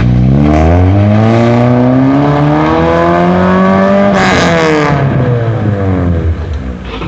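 Opel Calibra engine and exhaust climbing in revs. The pitch rises steadily for about four seconds, peaks with a brief rasp, then drops back over the next two seconds.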